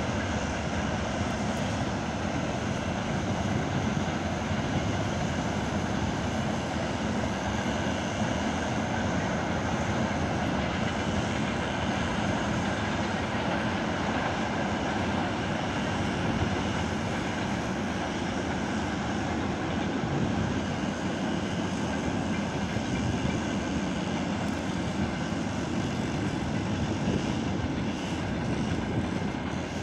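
Freight train of tank wagons rolling past, a steady unbroken rumble of wheels on the rails.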